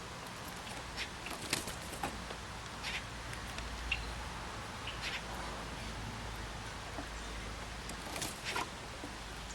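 Birds feeding on seed: scattered short faint ticks and a few chirps at irregular intervals over steady outdoor background hiss.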